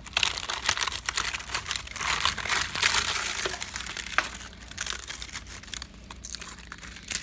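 Termites inside infested wood: a dense, irregular crackling of fine clicks, like paper crinkling, from the insects chewing through the timber. It is a sign of an active termite infestation.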